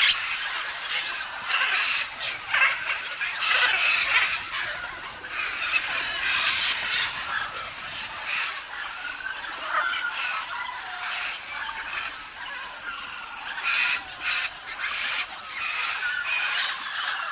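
Parrots calling, a run of irregular short squawks and chattering calls, over a steady high-pitched whine.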